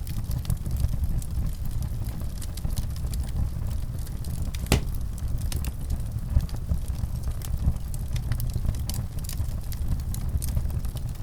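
Wood fire crackling in a fireplace: scattered sharp crackles over a steady low rumble, with one louder pop nearly five seconds in.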